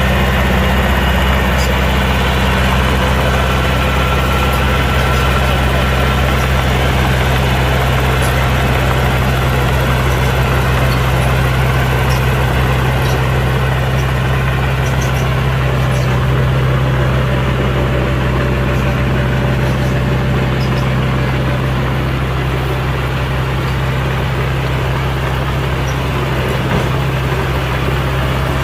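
Heavy diesel engine of earth-moving machinery running steadily at low revs: a deep, even drone that holds the same pitch throughout.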